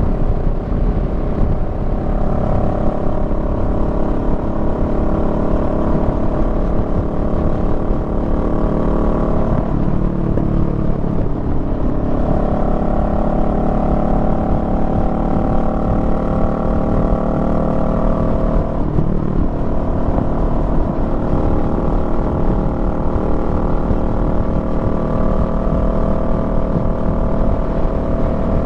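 Honda Rebel 500's 471 cc parallel-twin engine running under way on the road. Its note breaks off and comes back at a different pitch twice, about ten and nineteen seconds in.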